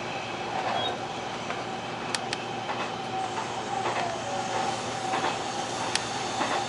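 Hanshin 1000 series electric train heard from inside the car while it runs: a steady running rumble and hum with a few sharp clicks from the wheels on the track, the clearest about two seconds in and near the end.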